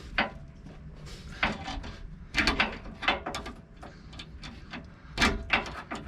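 A ratchet with a socket extension clicking and clinking on the small 8mm bolts that hold the front driveshaft's U-joint caps at the axle yoke. The clicks come irregularly, with a cluster about two and a half seconds in and a louder clink about five seconds in.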